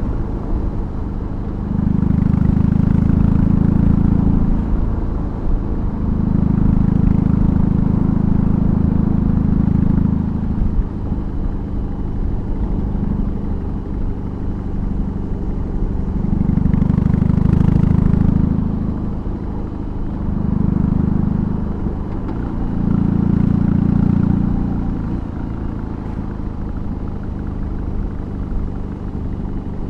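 BMW R18's 1802 cc boxer twin running through a custom exhaust under way, its low exhaust note swelling six times as the throttle opens and easing back between.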